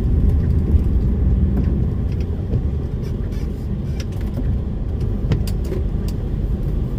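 DAF lorry on the move, heard from inside the cab: a steady low engine and road rumble, with a few faint sharp ticks.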